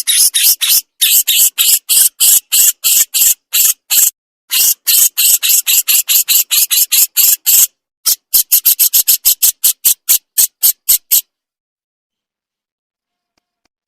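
The songbird kicau fanciers call burung jenggot giving its besetan call: a fast run of short, harsh, scratchy notes, about three or four a second, with a few brief pauses. It stops about eleven seconds in.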